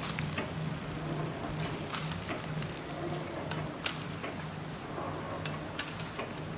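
Straw packing machine running, with a low hum that pulses in an even rhythm and irregular sharp clicks from its mechanism.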